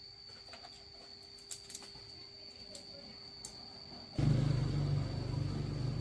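Quiet workshop ambience with a few small clicks and a steady high insect-like whine, then a machine motor switches on abruptly about four seconds in and runs steadily with a low hum.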